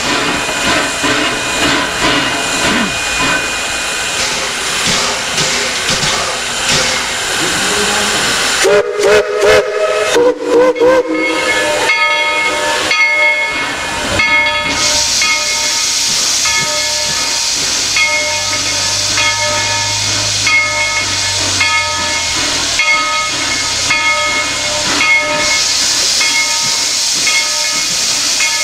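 Steam locomotive venting steam with a steady hiss, its whistle sounded in a few short blasts about nine to eleven seconds in.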